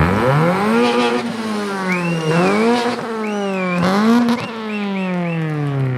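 A car engine revving: it climbs quickly, dips and climbs again a few times, then winds down slowly. A high wavering whistle rides over it in the middle.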